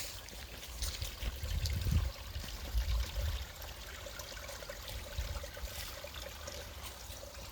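Running water trickling and pouring steadily, with low rumbling on the microphone during the first few seconds.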